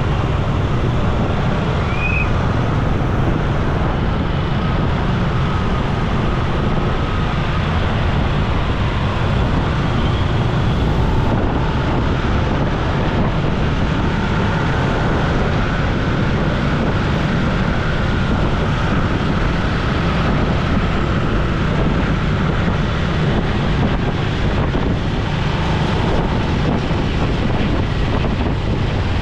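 Steady wind noise rushing over the microphone of a moving motorcycle, with road and traffic noise beneath it and faint wavering engine tones.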